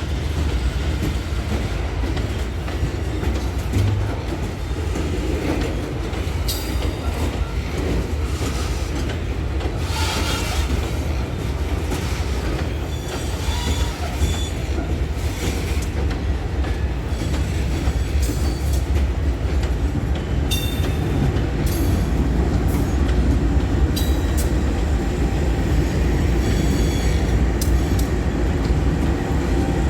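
Loaded freight train rolling past: a steady, loud low rumble of steel wheels on the rails, with short high-pitched wheel squeals now and then.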